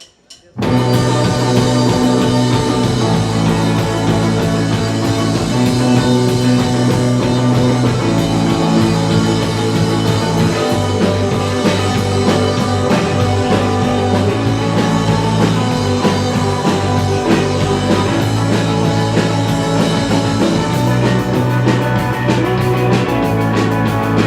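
Rock band music with electric guitar, bass and drum kit, starting abruptly about half a second in; the cymbals get busier near the end.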